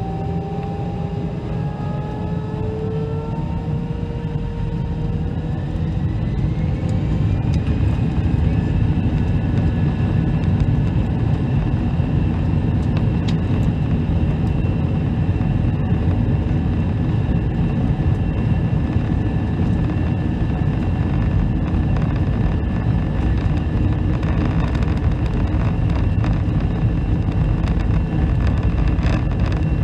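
Airbus A319's jet engines spooling up to takeoff power: a whine that rises over the first several seconds and then holds steady, over a loud low rumble of the takeoff roll.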